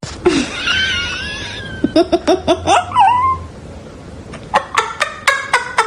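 A cat vocalising: a drawn-out, wavering meow, then a quick run of about five short rising calls and a bent call, followed near the end by a series of short, sharp sounds.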